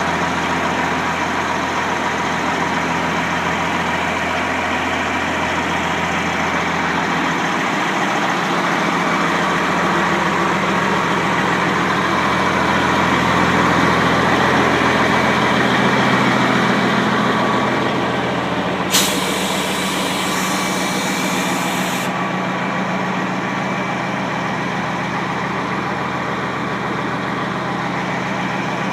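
Peterbilt 379 dump truck's diesel engine idling steadily. About two-thirds of the way through, a sudden burst of air hiss from the truck's air brake system lasts about three seconds and cuts off.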